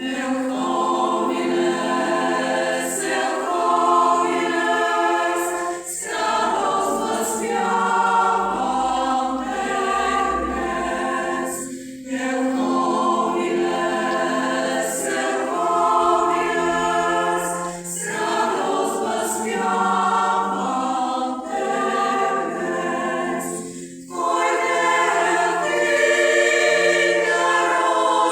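Choir singing in sustained chords, in phrases of about six seconds with short breaks between them.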